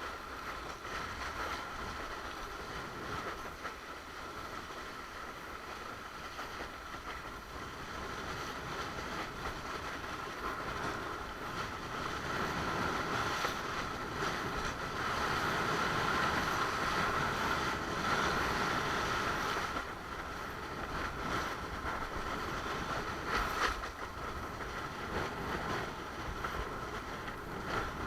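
Water rushing past a Fanatic Ultra Cat windsurf board under sail, with wind buffeting the microphone. It grows louder around the middle, then eases back suddenly about two-thirds of the way through.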